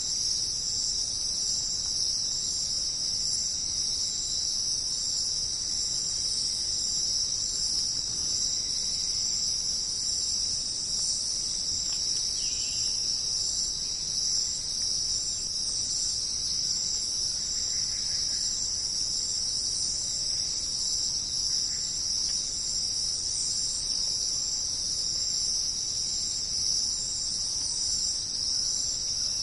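Dense, steady chorus of insects, a continuous high-pitched shrilling that holds unchanged throughout, with a few faint calls lower in pitch about twelve and eighteen seconds in.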